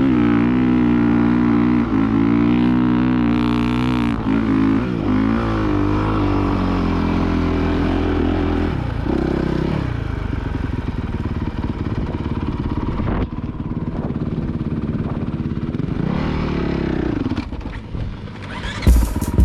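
Dirt bike engine running under riding load, its note rising and falling as the throttle is opened and eased off.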